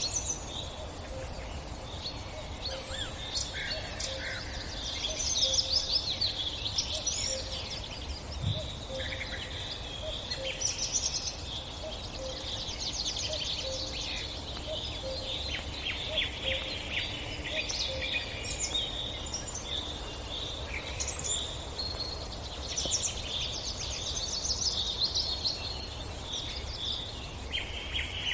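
Several wild birds calling and chirping together, with rapid trills and short whistled notes overlapping throughout, over a steady low rumble and a faint low note repeating about once a second.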